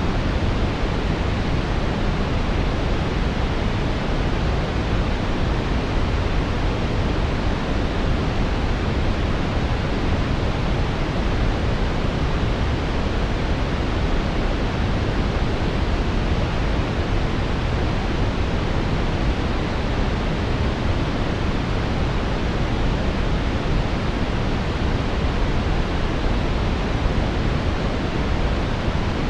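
Steady brown noise: an even, deep rushing hiss, strongest in the low end, with no changes or breaks.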